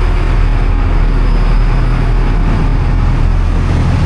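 Boat's engines droning steadily while under way, a constant low hum under a wash of wind and water noise.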